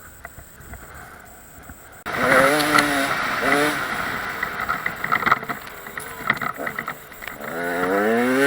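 Dirt bike engine revving, starting abruptly about two seconds in with short rising blips of the throttle and a longer rising rev near the end.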